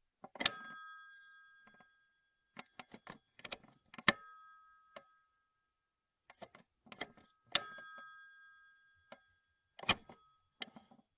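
1950 rotary telephone being handled: clusters of knocks and clicks, with the phone's bell struck into a single short ring three times, each ring fading over about a second.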